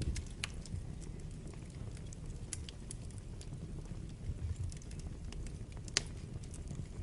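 Wood fire burning in a fireplace: a steady low rumble of the flames with scattered crackles and pops, the sharpest pop about six seconds in.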